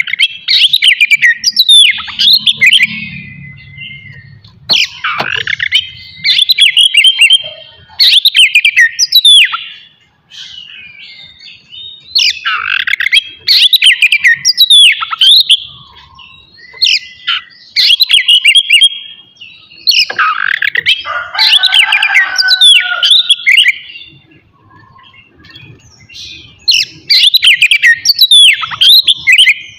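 Oriental magpie-robin (kacer) singing loud, varied phrases of quick whistles, sweeps and trills, in bursts a few seconds apart with two short pauses.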